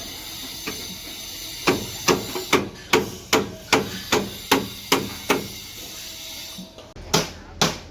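Repeated sharp knocks, evenly spaced at about two and a half a second, stopping briefly after about five seconds, then a fresh run of knocks starting abruptly near the end.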